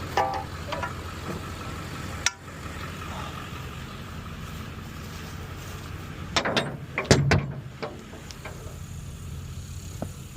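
An engine idling steadily, with a single sharp knock about two seconds in and a cluster of knocks and clanks around seven seconds.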